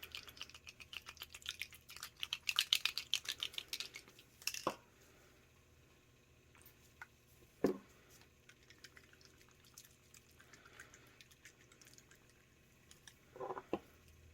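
Small rapid clicks and drips for about four seconds, then quiet broken by three separate soft knocks, as liquid is dripped onto a tumbler and the bottles and cup are handled.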